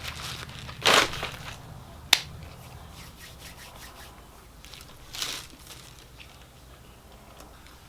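Crunching bites of a crispy fried chicken sandwich. The loudest crunch comes about a second in, a sharp click about two seconds in, and a softer crunch about five seconds in.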